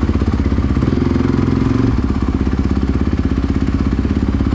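Off-road vehicle engine running steadily at low revs, with an even pulsing beat.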